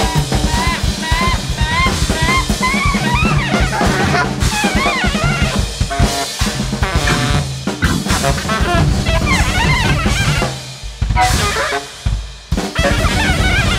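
Large jazz band playing loud and fast, with two drum kits driving under repeated horn phrases; the band drops out briefly twice near the end.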